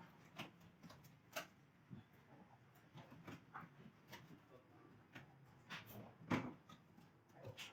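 Faint, scattered light clicks and knocks of tools and parts being handled, about a dozen, with the loudest knocks about one and a half and six seconds in.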